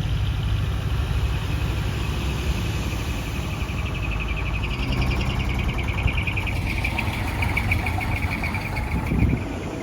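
Diesel truck engine running as a heavy decorated truck drives off, its level easing slowly, with insects trilling steadily in the background.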